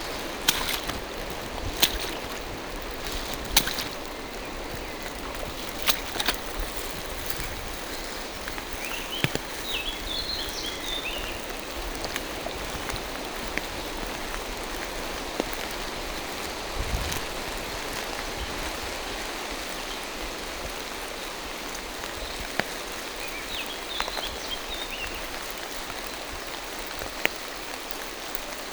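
Steady rain falling through forest trees, with occasional sharp taps of nearer drops. A bird calls briefly and faintly twice, about a third of the way in and again near the end.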